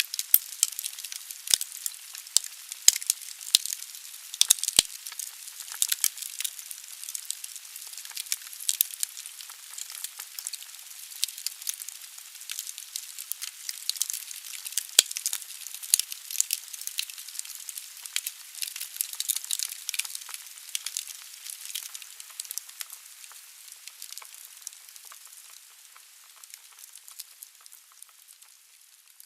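Wood fire burning in a fireplace: steady hiss of the flames with frequent sharp crackles and pops from the logs, fading out near the end.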